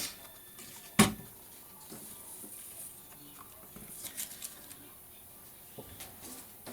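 Craft handling on a tabletop: a sharp knock about a second in, then scattered light taps and paper rustles.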